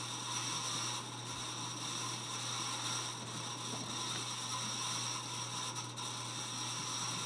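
Casablanca Delta II ceiling fan running steadily on medium speed: the bearings are very loud, with a grinding rasp and a little motor hum. The noise is the sign of worn bearings that need replacing.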